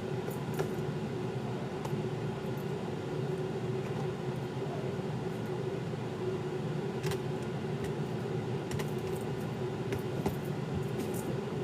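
Steady low machine hum with scattered light clicks and taps.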